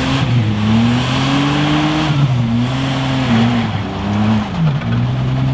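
Off-road 4x4's engine revving, its pitch rising and falling several times as the stuck vehicle tries to drive out.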